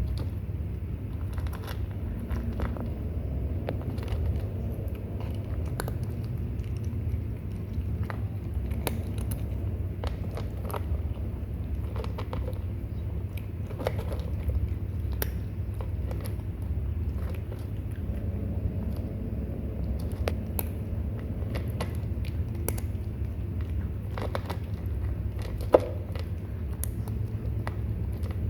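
Kittens eating, with many small crunching and chewing clicks over a steady low rumble, and one sharper click near the end.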